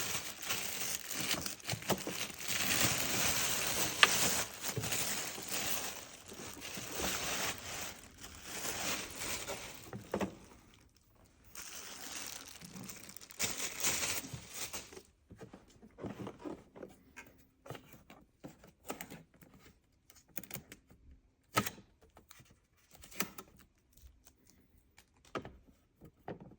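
Packaging being pulled off an espresso machine: dense crinkling and tearing of wrapping for about the first fifteen seconds, then scattered light knocks and clicks as the machine is handled.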